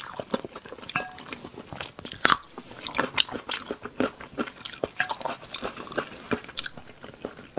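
A person chewing a mouthful of food close to the microphone: an irregular string of wet smacking clicks, the loudest a little over two seconds in.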